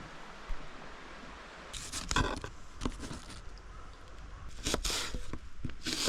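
Irregular scraping and rustling, with a few sharp knocks, as of things being handled at close range.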